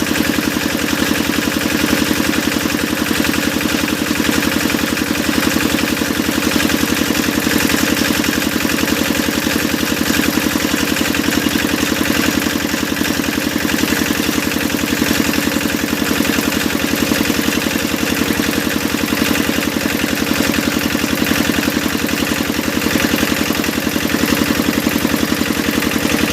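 Engine of a hydraulic deep-well drilling machine running steadily, with a fast, even beat.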